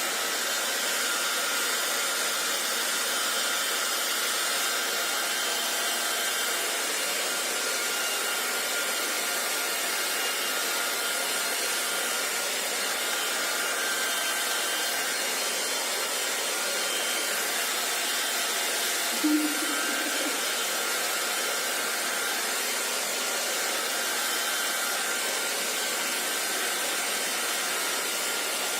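Hair dryer blowing steadily, a constant airy noise with a faint whine running through it. A brief low sound cuts in about two-thirds of the way through.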